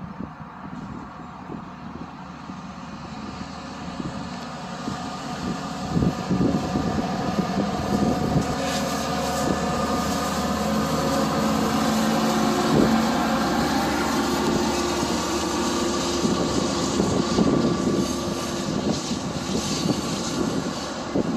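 Exo commuter train coming closer along the line, its engine running and its wheels on the rails getting steadily louder over the first several seconds, then staying loud as it goes by.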